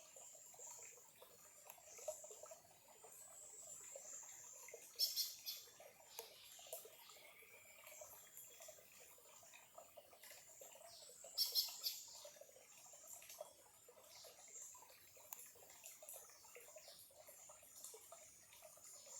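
A small, clear stream trickling softly, with birds chirping high above it. Two louder bursts of chirps come about five seconds and eleven and a half seconds in.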